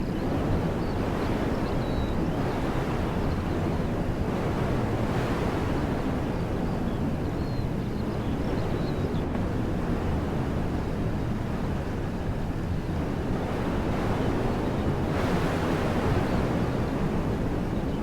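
Wind blowing through trees: a steady dense rushing with a low rumble of wind on the microphone, swelling in gusts about five seconds in and again near the end. A few faint bird chirps come through.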